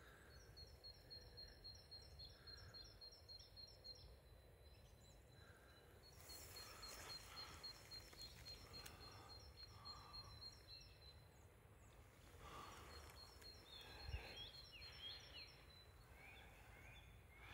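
Faint birdsong: a bird repeating short, high notes in a steady, even series. Soft rustling of steps through grass and leaf litter comes twice.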